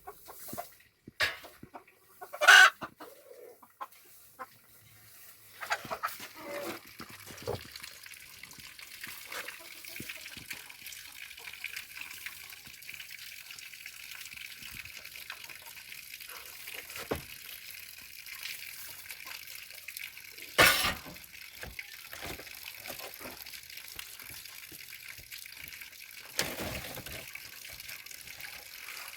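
Domestic chickens clucking, with a few sharp, loud calls near the start and another about two-thirds of the way through, over a steady hissing background noise from about six seconds in.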